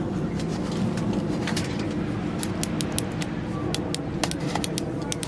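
A steady low mechanical hum, with a series of light clicks and taps from about halfway through.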